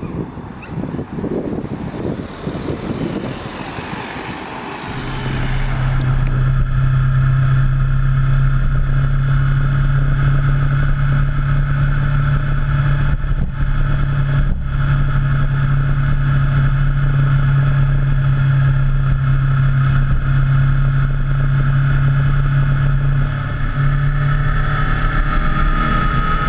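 Motorcycle riding on the road: rough wind and road noise for the first few seconds, then from about five seconds in the engine settles into a steady, unchanging note at cruising speed, with wind rush over it.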